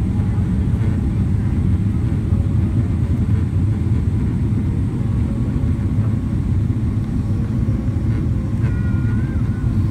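Loud, steady low rumble of a Boeing 777 heard from inside the passenger cabin during landing.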